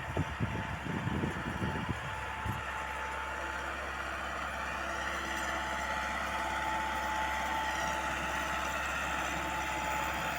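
Four-cylinder diesel engine of a Massey Ferguson 385 tractor running steadily under load while it pulls an offset disc harrow. A few loud, low gusts or thumps come in the first couple of seconds.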